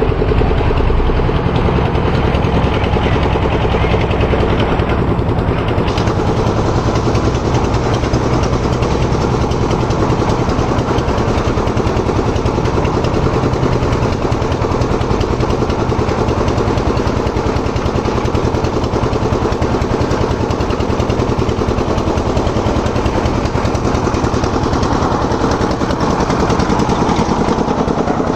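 Heavy diesel engines running steadily: a backhoe loader's and farm tractors'.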